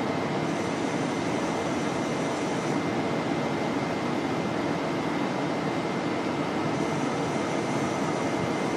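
Steady mechanical hum and rumble of a train, with a thin steady whine running through it and a fainter high tone that comes in for a couple of seconds near the start and again near the end.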